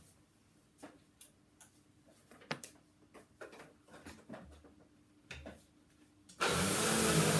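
Light handling clicks and knocks. Then, about six seconds in, an electric sander switches on suddenly and runs steadily, with a broad hiss over a low hum.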